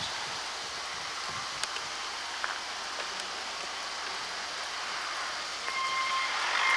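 Steady, even hiss of outdoor noise with a few faint clicks, growing louder near the end, where a brief steady tone comes in.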